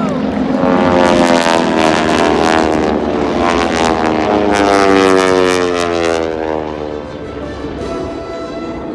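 Four-ship formation of T-6 Texan aerobatic planes with radial engines passing by: the propeller and engine drone slides down in pitch as they go past, then fades after about six seconds.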